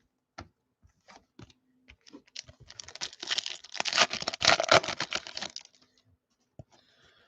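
A few light handling clicks, then about three seconds of dense crinkling and tearing as a foil trading-card pack wrapper is ripped open.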